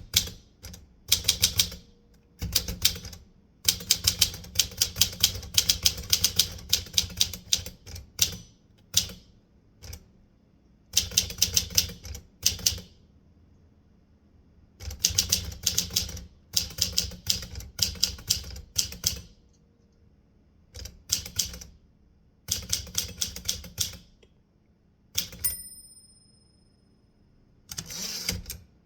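Typewriter keys struck in quick runs of clacks, broken by short pauses. About three-quarters of the way through, the end-of-line bell dings once. A short rasping sweep follows, the carriage being returned.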